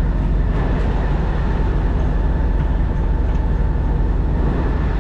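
Diesel engine idling, a steady low rumble that holds even throughout.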